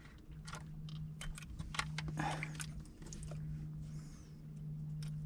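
Scattered clicks, scrapes and crunches of hand work on a removed shower pump unit, over a steady low hum.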